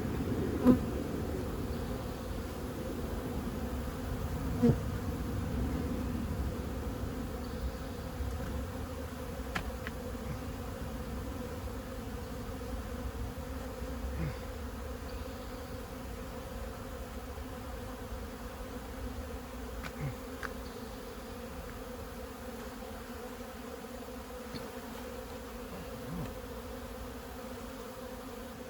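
Swarm of defensive feral honey bees buzzing steadily around the beekeeper during a hive cut-out from a house wall. Two short sharp knocks stand out, about a second in and about five seconds in.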